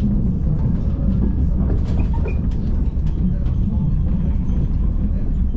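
Frecciarossa ETR 500 high-speed train heard from inside a passenger coach: a steady low rumble of the train running on the track, with scattered light clicks and creaks.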